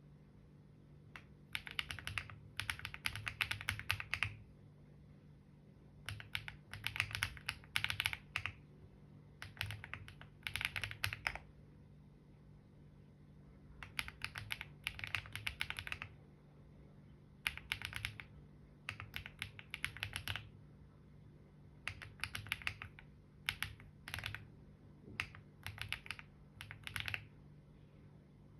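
Typing on a computer keyboard in spurts of one to two seconds, with short pauses between, over a low steady hum.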